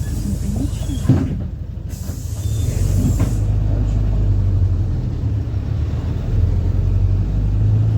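PAZ-4234-05 bus's diesel engine running, getting louder about two and a half seconds in. Two hisses of released compressed air from the bus's pneumatics, one through the first second or so and another from about two to three and a half seconds in, with a sharp knock about a second in.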